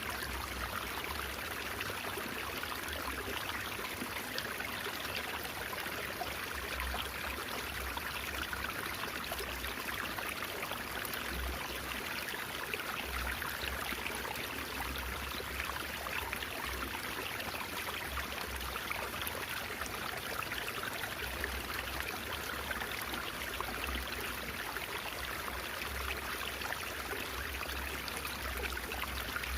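A small stream babbling and trickling steadily, with no let-up.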